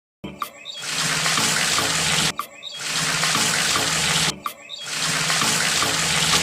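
Water pouring in a steady rush, in three stretches broken by short pauses about every two seconds.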